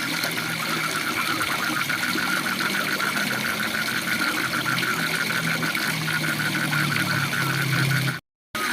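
Waterfall rushing steadily, with frogs calling in a rapid pulsed chorus of several calls a second and a low drone underneath. The sound cuts out completely for a moment near the end.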